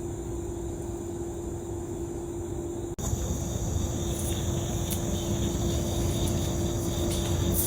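Outdoor garden ambience: a steady low drone with a constant high insect trill over it. It cuts out abruptly about three seconds in and comes back louder, with a few faint clicks.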